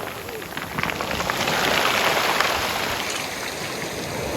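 Sea waves washing over a pebble beach, the water dragging the stones so that they rattle in a dense hiss of tiny clicks. The wash swells about two seconds in and then eases off.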